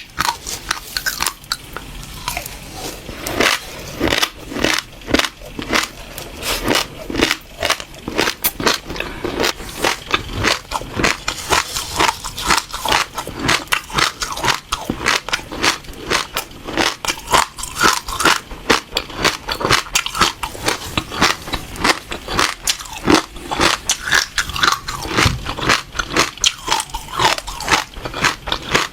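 Close-miked chewing of passion fruit seeds: rapid, crisp crunches as the seeds are bitten and crushed in the mouth, several a second and without pause.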